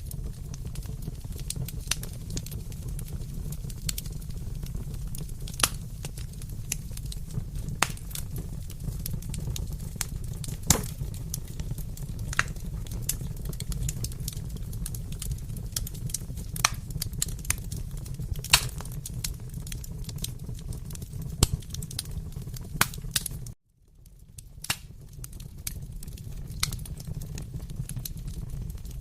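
Fireplace crackling: irregular sharp pops and snaps from burning wood over a steady low rumble of the fire. About two-thirds of the way through, the sound cuts out suddenly for a moment and then fades back in.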